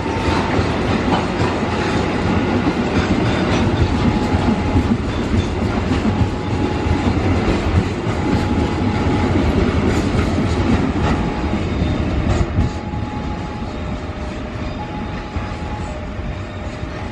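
Long freight train of flat wagons carrying tank containers rolling past with a steady rumble of wheels on the rails. Short high tones sound on and off above it, and the rumble eases a little in the last few seconds.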